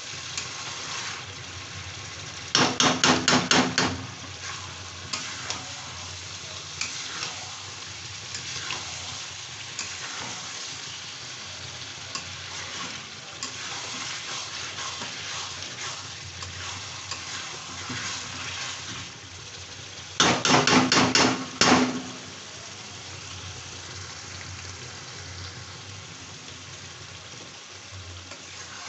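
Chicken frying in masala in a kadai, sizzling while a flat spatula stirs and scrapes it around the pan. Twice, once near the start and once past the middle, a loud rapid rattle of the spatula knocking against the pan lasts about a second and a half.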